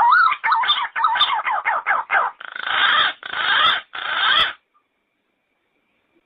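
Yellow-footed green pigeon calling: a quick run of whistled notes that slide up and down, then three harsher, rasping notes, breaking off about four and a half seconds in.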